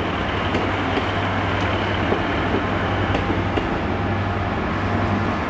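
Loco-hauled passenger train rolling slowly along the platform, led by a Mark 4 driving van trailer with its coaches: a steady low rumble and hum, with a few light clicks from the wheels.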